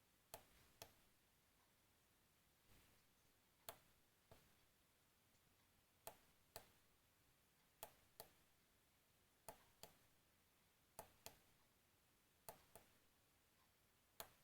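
Small push switches clicking faintly, in pairs about half a second apart, a pair every one and a half to two seconds, as gear changes are entered one by one on the gear indicator's up and down shift buttons.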